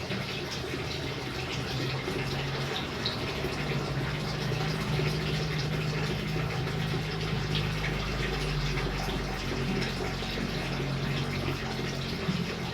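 Steady rain falling, an even hiss of water with many small scattered drips and splashes, over a steady low rumble.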